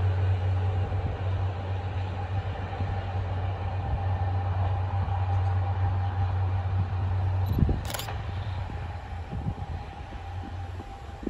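CMB30 overhead-line maintenance rail vehicle running by on the track: a steady low engine drone that drops away about two-thirds of the way through, leaving a fainter rumble. A faint steady whine runs underneath, and a single sharp click comes just after the drone drops.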